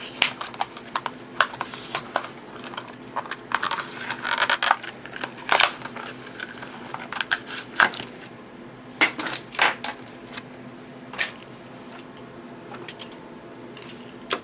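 Plastic blister pack of a Hot Wheels diecast car being pried open and the card torn: a run of sharp plastic crackles and clicks, thickest in the first five seconds, then scattered clicks that thin out toward the end.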